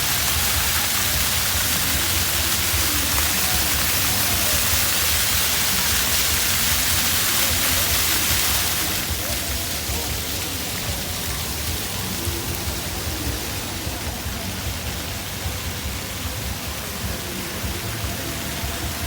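Steady rush of water falling at a waterfall, a little quieter from about nine seconds in.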